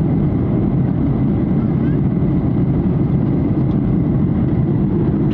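Steady, loud rumble of aircraft noise, unbroken and heavy in the low end, with faint voices mixed in.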